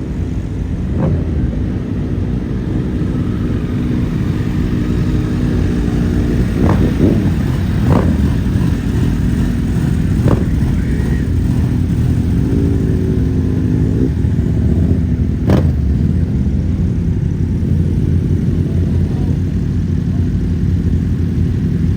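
Motorcycle engines running at a low steady rumble, with short throttle blips now and then and a single sharp crack about two thirds of the way through.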